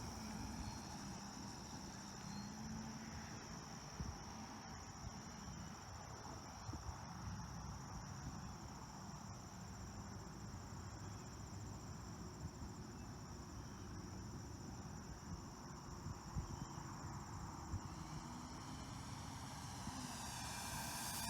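A steady high-pitched insect trill over low wind rumble outdoors. An electric RC airplane's motor and propeller are heard faintly, then grow louder near the end as the plane approaches.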